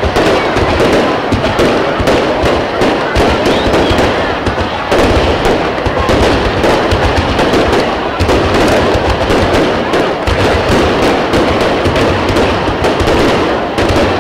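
Aerial firework shells bursting in a loud, continuous run of bangs in quick succession.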